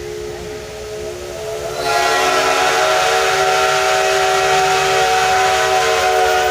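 Steam locomotive whistle: a soft two-note tone, then about two seconds in a loud, long multi-note chime blast with the hiss of steam, held steady.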